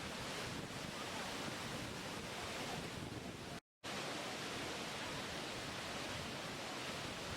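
Steady rushing water, an even hiss with no surges, broken by a brief cut to total silence about three and a half seconds in.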